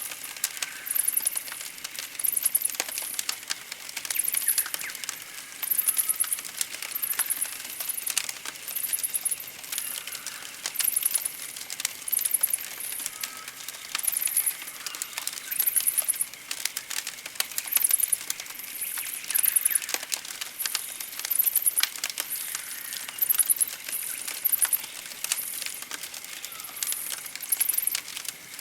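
Campfire crackling with frequent sharp pops, while birds chirp in very high, quick bursts repeating about every second or so.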